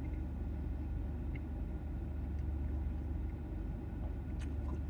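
Steady low rumble like an engine running, with a couple of faint clicks near the end.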